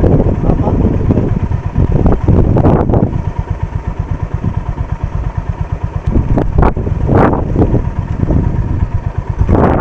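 Honda CB350 RS's single-cylinder engine running. It is louder for the first three seconds, then settles into an even, low idle thump.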